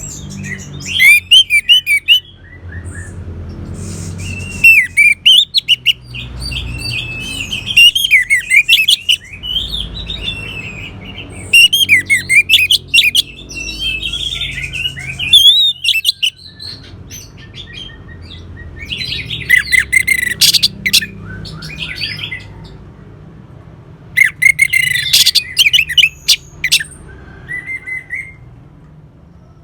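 Orange-headed thrush singing: loud, varied phrases of quick whistles and chirps, repeated every few seconds with short pauses between them, over a faint low hum.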